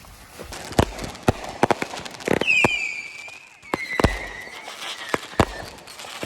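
Fireworks going off: a string of sharp separate bangs, with a whistling shriek in the middle that slowly falls in pitch.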